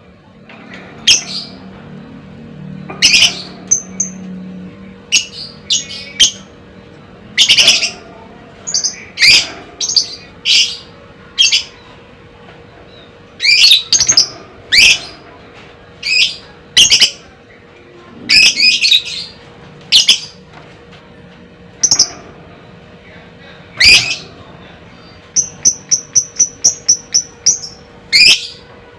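Lovebird giving sharp, loud squawking calls about once a second, then a quick run of short high chirps near the end.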